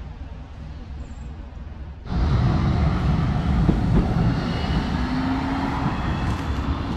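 Tram running: a low, steady rumble that jumps to a louder, fuller rumble about two seconds in, with a faint whine later on.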